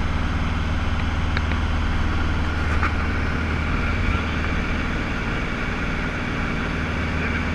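Cessna 150L's Continental O-200 four-cylinder engine and propeller running steadily: a low, even drone with a hiss over it.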